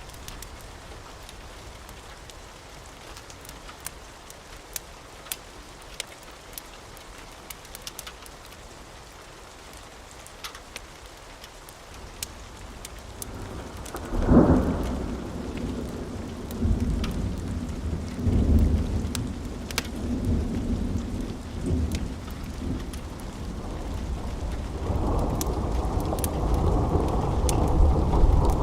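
Steady rain with a wood fire's scattered sharp crackles. About twelve seconds in, a low thunder rumble builds, breaks loudly a couple of seconds later and keeps rolling in waves, swelling again near the end.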